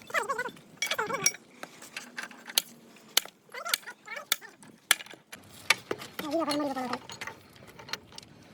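Irregular sharp metal clinks and clicks of hand tools and steel parts being handled during the strip-down of a hydraulic rock breaker, with short bursts of voices in between.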